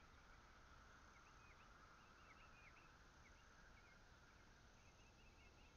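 Near silence with faint, scattered short bird chirps, several a second in places.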